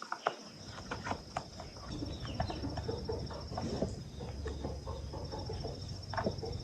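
Scattered light clicks and taps of hand work, over a steady high chirring of insects.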